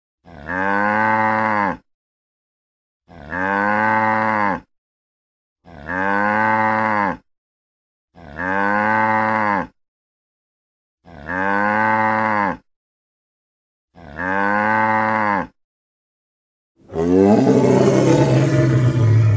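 A cow mooing: the same long, pitched call six times at even intervals, with dead silence between. Near the end a louder, rougher roar begins.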